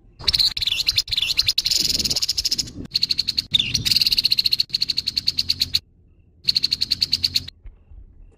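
Grey-headed babbler's harsh rattling call: rapid chattering notes repeated many times a second, in three bursts, the last one short.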